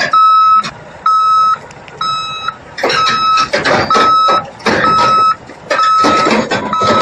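A vehicle's reversing alarm beeping steadily, about one beep a second, over the noise of working machinery.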